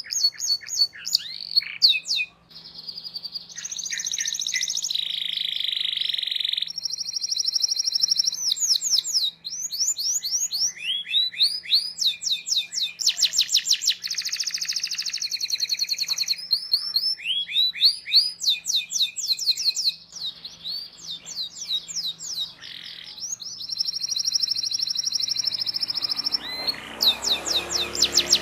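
Domestic canary singing a long song: fast series of repeated chirps alternating with steady rolling trills, the phrase changing every second or two.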